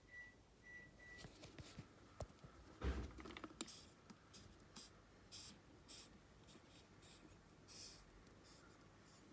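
Faint scratching and rustling, with a louder knock and rustle about three seconds in. Three short high beeps sound in the first second.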